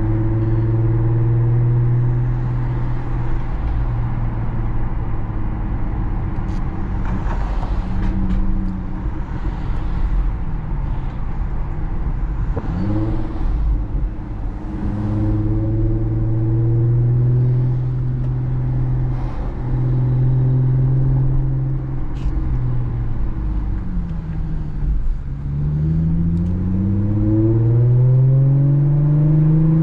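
Exhaust note of a 2017 Audi SQ5's supercharged 3.0-litre V6 through AWE non-resonated downpipes and a Touring catback, heard from inside the cabin while driving. A steady low drone dips and rises about halfway through, then climbs in pitch over the last few seconds as the revs build.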